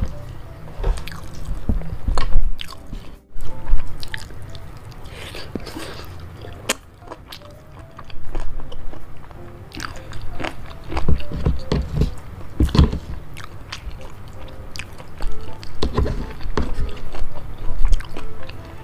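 A person chewing close to the microphone on mouthfuls of spicy boneless chicken feet in chili sauce, with many short, uneven mouth smacks and clicks.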